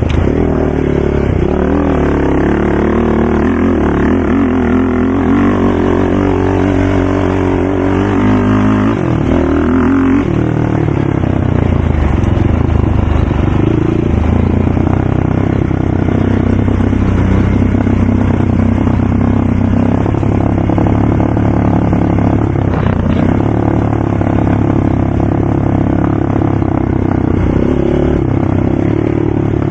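Loud ATV engine running hard, its pitch rising and falling with the throttle and shifting sharply about nine seconds in.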